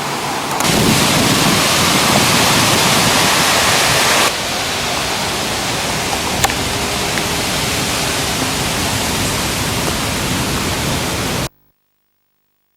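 Steady rushing noise, louder for the first few seconds, that cuts off abruptly near the end.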